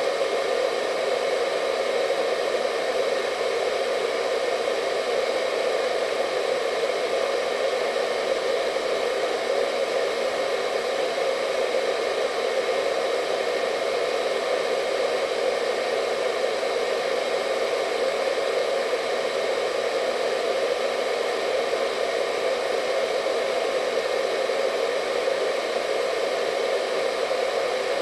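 Hair dryer running steadily, an even rushing whir with most of its weight in the low-middle range and a faint high whine of the motor, unchanging throughout.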